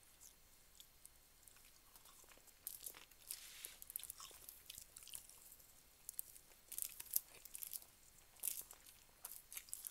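Person eating rice and fish by hand: chewing with wet mouth clicks and crackles, coming in scattered clusters, the first about three seconds in.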